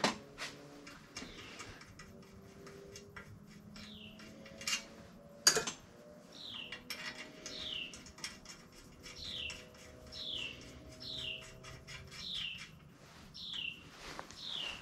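A bird calling a repeated short falling chirp, about one every three-quarters of a second, starting about four seconds in. A sharp metallic knock about five seconds in and a few light clicks from work on a metal bicycle frame.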